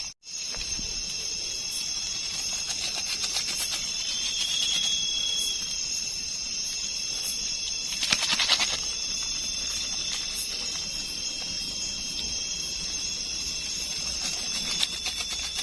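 Steady night chorus of forest insects, several high trills held on at once, with a brief rustling noise about eight seconds in.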